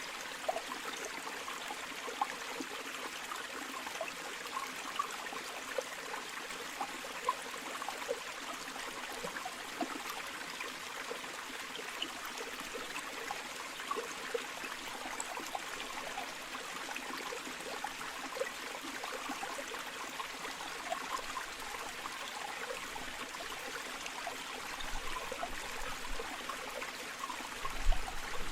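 Flowing river water running steadily, with many small bubbling, gurgling plinks over the rush. A few low bumps come near the end.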